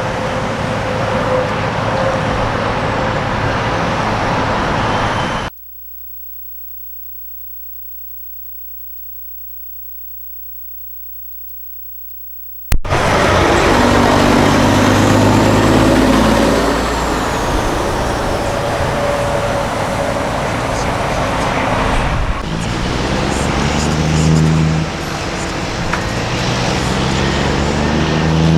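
Heavy trucks' diesel engines running and passing amid traffic noise. There is a sudden quiet gap of about seven seconds from around 5 s in. After it, the engine pitch rises in steps twice as trucks accelerate through their gears.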